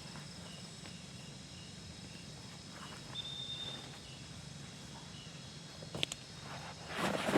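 Insects chirping outdoors: a steady high drone with short repeated high chirps. A couple of sharp clicks come about six seconds in, and a louder rustling scuffle comes near the end.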